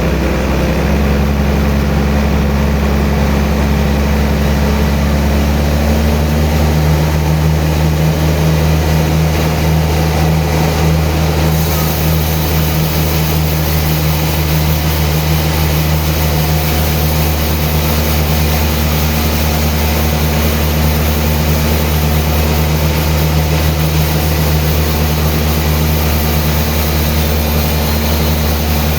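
Sawmill machinery's engine running steadily, a low, even drone with no breaks; its tone drops a little about six seconds in.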